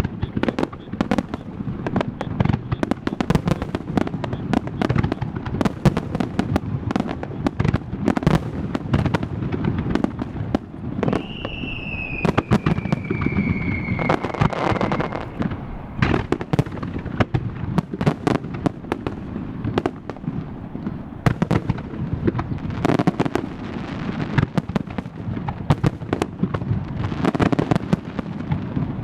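Starmine fireworks barrage: shell bursts and crackle in dense, rapid succession without a break. A single whistle falls in pitch in the middle, lasting about four seconds.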